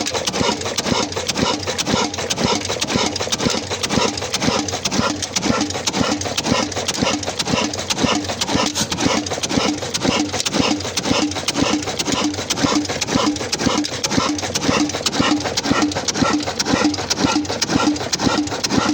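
Old Ruston black diesel engine running a tube well pump, a steady, even beat of firing strokes.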